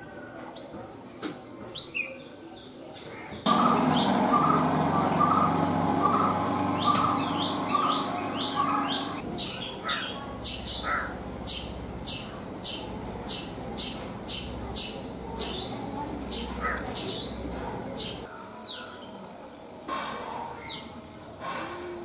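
Birds chirping and calling in several spliced clips: scattered high chirps, then a sudden louder stretch with a low hum underneath, then a long run of short, high, falling chirps repeated about one and a half times a second, then scattered chirps again.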